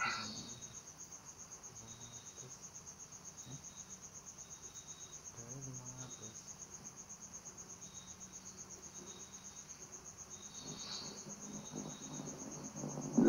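Insects trilling steadily: one high note pulsing fast and evenly. Faint, indistinct voices come in briefly twice in the background.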